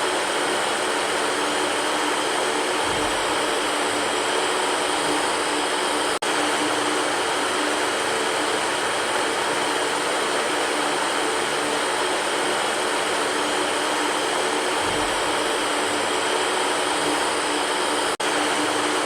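Electric fan running, a steady whooshing hiss with a faint low hum under it. The level drops out for an instant twice, about six and eighteen seconds in.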